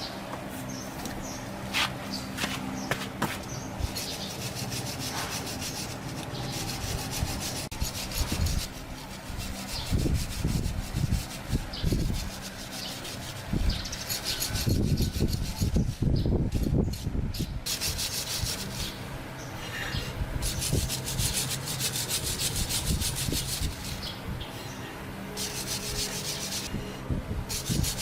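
Repeated rubbing strokes on a hard surface, coming in spells, with scattered knocks.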